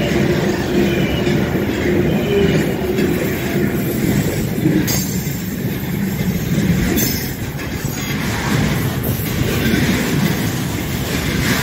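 Freight train of loaded container wagons rolling past close by: a steady rumble of wheels on rail, with knocks as wheels cross rail joints and faint wheel squeal now and then.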